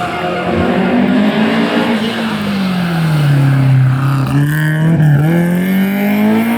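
Historic rally car's engine at high revs, the pitch falling steadily as it comes off the throttle and slows, holding low for a second or two, then climbing again near the end as it accelerates away.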